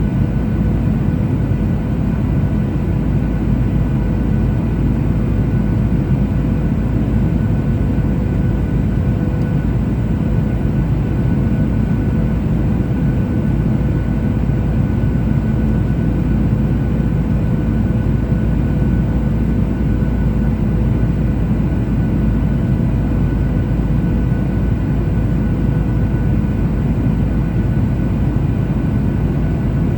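Steady cabin noise inside a Boeing 737-800 in flight: a low, even rumble of its CFM56 jet engines and rushing air over the fuselage, with a few faint steady hums on top.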